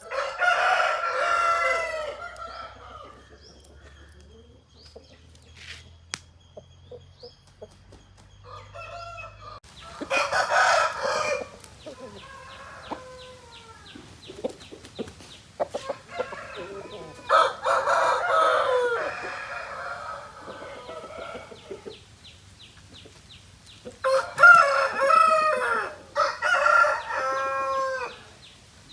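Aseel roosters crowing in four loud bouts, with quieter clucking and short calls between them.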